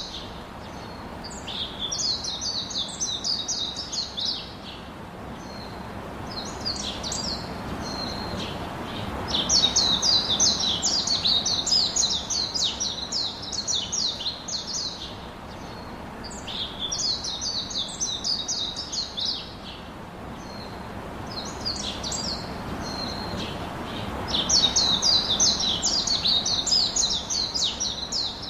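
A songbird singing long bursts of rapid, high chirping notes. The same sequence of bursts repeats about every fifteen seconds.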